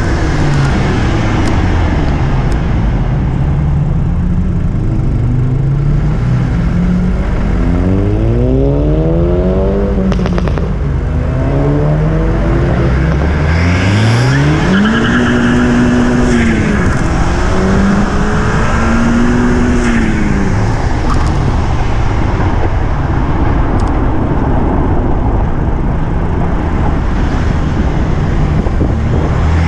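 A car engine revving up and falling back several times, its pitch rising and dropping in smooth arcs, over a steady heavy rumble.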